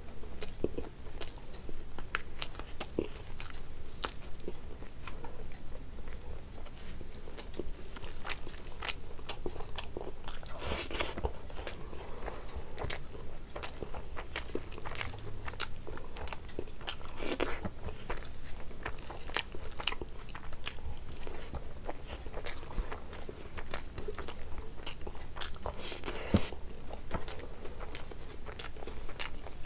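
Close-miked chewing and eating by hand: a steady run of wet mouth clicks and smacks, with a few longer, noisier chewing sounds.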